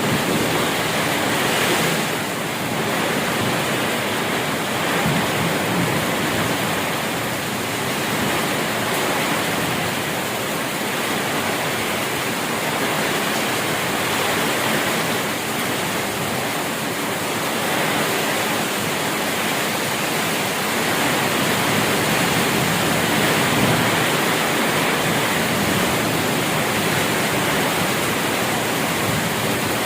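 Heavy rain falling steadily in a windy storm, a dense even hiss without thunder.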